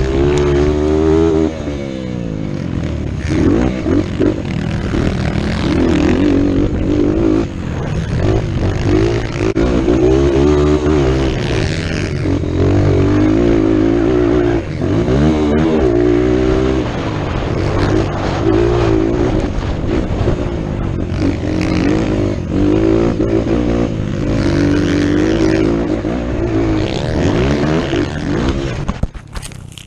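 Motocross bike engine racing, revving up and easing off over and over as the pitch climbs and drops with throttle and gear changes.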